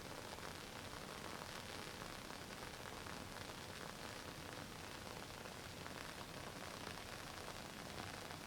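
WoodWick candle's wooden wick burning with a faint, steady fine crackle, like a tiny campfire.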